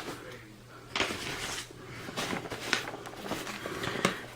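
Boxed firework cakes being handled and shifted, with several light knocks and scrapes of cardboard as one is put down and the next picked up.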